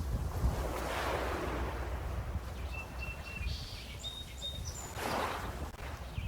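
Small lake waves washing against shoreline stones, with two swells of splashing about a second in and near the end. Wind rumbles on the microphone, and a few short, high bird chirps come in the middle.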